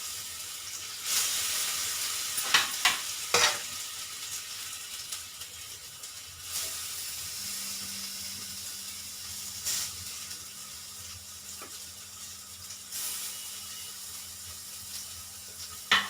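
Raw banana pieces deep-frying in a kadai of hot oil, sizzling steadily, with a few sharp clacks of a utensil against the pan about two to three seconds in and again at the end.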